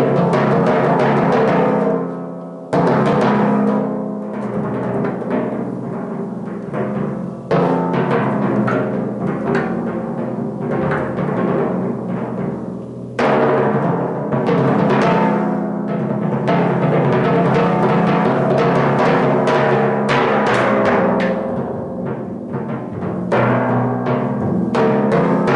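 Solo set of four timpani played with mallets: dense runs of strokes with the drums' pitched tones ringing together. The playing swells and thins out, and several times it breaks back in with a sudden loud attack.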